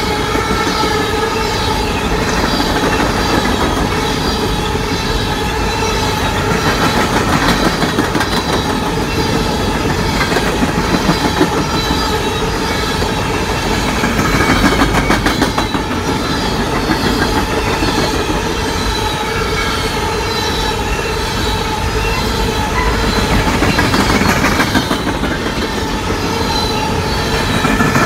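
Empty CSX coal cars rolling steadily past close by: a loud, continuous rumble of wheels on rail with clickety-clack over the joints and a steady high squeal from the wheels.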